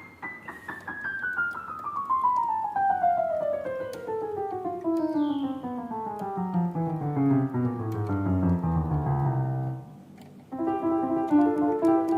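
Yamaha PSR-S970 arranger keyboard sounding a piano voice: single notes played one after another straight down the keyboard from the high end to the bass over about ten seconds, then after a short pause repeated chords near the end. It is the kind of key-by-key run used to check that every key sounds on a freshly repaired keyboard.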